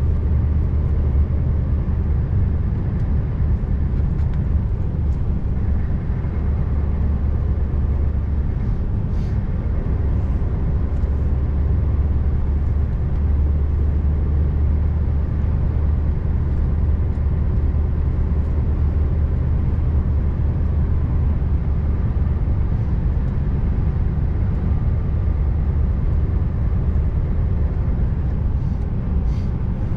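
Scania R590 V8 truck engine and tyre noise on a winter road, a steady low drone while the truck drives at an even pace.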